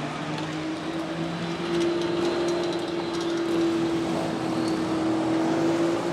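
A car engine running at a steady pitch. The pitch rises slightly over the first second, and the engine gets louder about two seconds in.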